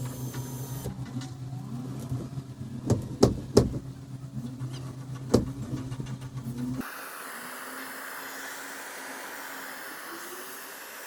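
A motor hums steadily, with a few sharp knocks in the middle. Then the sound cuts abruptly to a steady hiss.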